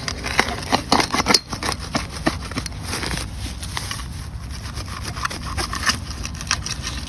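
A hand digging tool cutting and scraping into soft, wet soil to dig out a metal-detector target: a run of short crunching scrapes, heaviest in the first second and a half and then lighter, over a steady low rumble.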